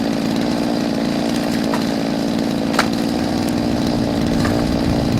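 Chainsaw engine running at a steady speed, with one sharp tick a little past halfway.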